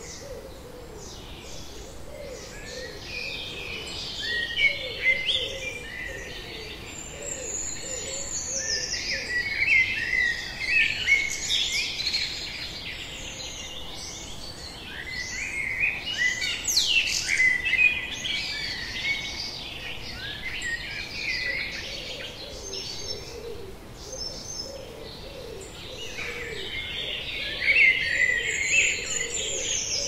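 Wild songbirds singing in a dense, continuous chorus of rapid high chirps, trills and warbles that swell and ease several times, over a fainter run of lower repeated notes.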